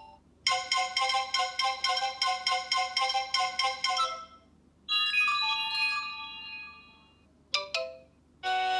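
iOS 7 ringtones and alert tones on an iPhone, played one after another. First comes a fast, repeating marimba-like melody lasting about four seconds. After a short gap comes a ringing chime run, then a brief two-note alert, and near the end another tone begins.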